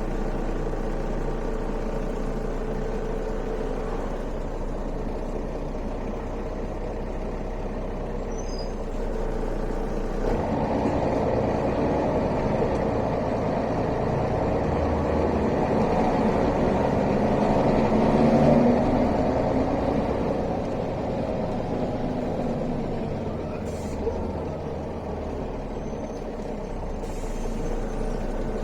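Mercedes-Benz O405 city bus heard from inside the cabin: the engine runs steadily at first, then about ten seconds in the bus pulls away, with engine and road noise building and then easing off again near the end. A short click comes shortly before the end.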